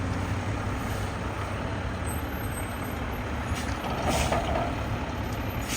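Mack MRU McNeilus Atlantic front-loader garbage truck's diesel engine running with a deep, low-pitched sound, with a short hiss of air about four seconds in.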